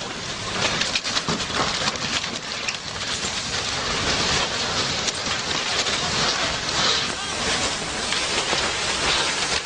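Steady rushing noise with a fine crackle and no clear tone.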